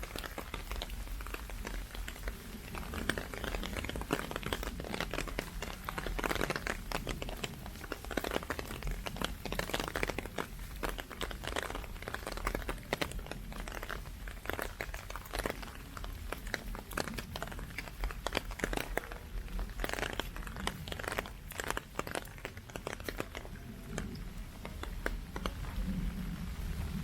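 Heavy typhoon rain: a dense, irregular patter and crackle of drops striking close to the microphone, over a steady low rumble.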